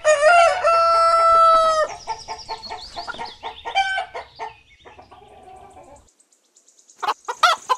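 Rooster crowing: one long held call in the first two seconds, breaking into choppy calls that trail off by about the middle. After a short pause, a run of rapid clucks starts near the end.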